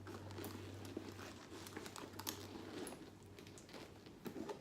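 Faint rustling, crinkling and small knocks of an iPad Air in its cover being handled and slid into a leather handbag.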